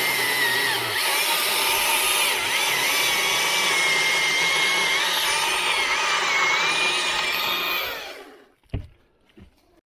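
Chainsaw cutting into oak, its engine pitch wavering under load. It stops about eight seconds in, followed by two short knocks.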